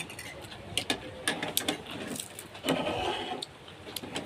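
Irregular sharp clicks and knocks, like objects being handled and set down, with a denser scraping or rustling stretch a little before the end.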